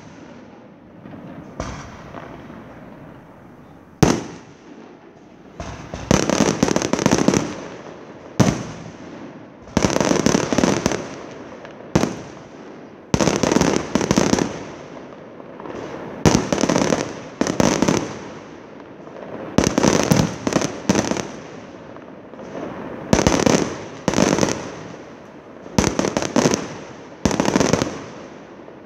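Aerial fireworks display: a few single sharp bangs of shells bursting, then crackling bursts about every two seconds, each a cluster of rapid pops lasting about a second.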